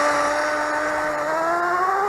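Small nitro glow engine of a Kyosho Nitro Blizzard RC tracked vehicle running at a steady, fairly high speed, its pitch creeping slightly upward.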